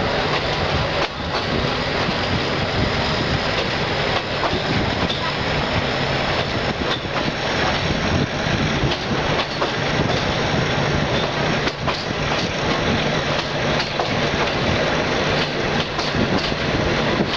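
Passenger train running along the track, heard from an open carriage window: a steady rumble with wheels clacking irregularly over the rail joints.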